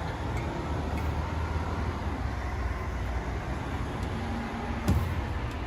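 Steady low background rumble, with a single knock about five seconds in.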